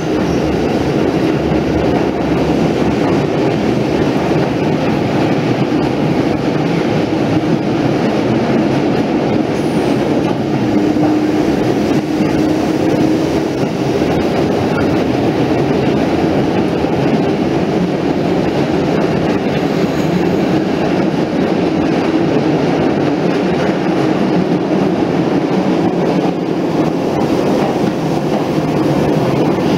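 Keisei 3500-series electric train heard from inside a passenger car while running: a steady, loud rumble of wheels on the rails and running gear. A faint hum stands out for a few seconds about ten seconds in.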